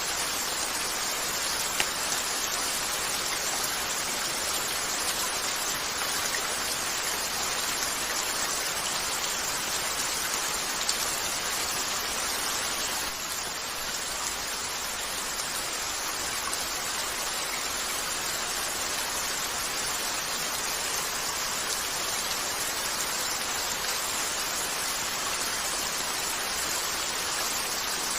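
Steady rain falling on a window, an even hiss, with a couple of brief sharp ticks, one near the start and one about eleven seconds in.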